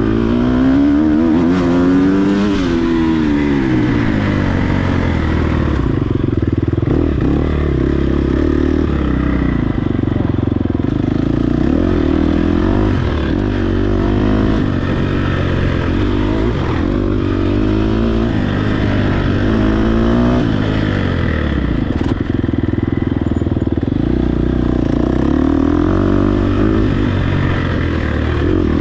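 Dirt bike engine revving hard and dropping back over and over, its pitch climbing and falling every second or two as the throttle is opened and closed through the gears.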